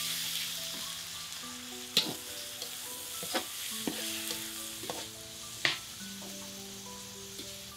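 Spice paste and leunca berries sizzling as they hit a hot wok, the hiss loudest at the start and easing off. A metal spatula scrapes and clinks sharply against the wok about three times while stirring.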